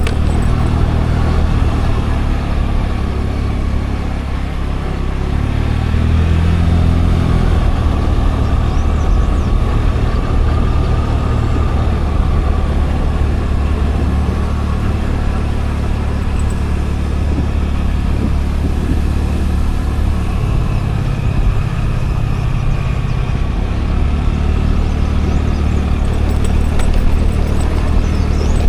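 Scooter engine running under way, heard with road and wind noise, its pitch shifting a few times as the rider changes speed.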